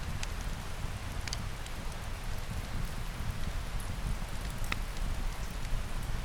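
Steady rain falling with a deep low rumble underneath, and a few sharp pops from a crackling wood fire, one about a second in and one near five seconds in.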